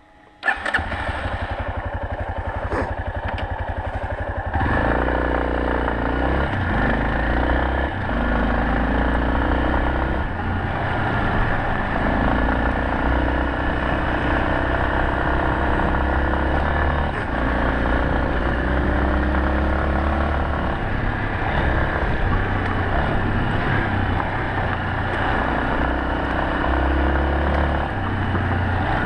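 Yamaha Serow 250's single-cylinder four-stroke engine idling with an even, steady pulse, then pulling away about four and a half seconds in and running on at changing revs, stepping up and down through the gears.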